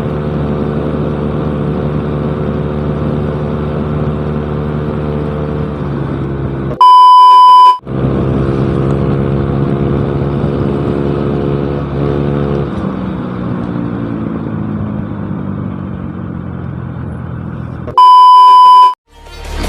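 Yamaha Mio Smile scooter engine running through a cheap aftermarket exhaust, a steady note that drops about 12 s in and then sinks slowly. It is cut twice by a loud, one-second beep, about 7 s and 18 s in, which is the loudest sound here.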